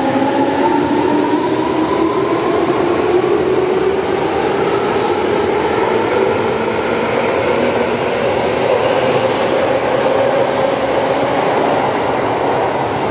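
Tobu 9000 series electric train pulling out of an underground station. Its traction motors whine in several tones that rise slowly in pitch as it gathers speed, over the steady running noise of the wheels on the rails.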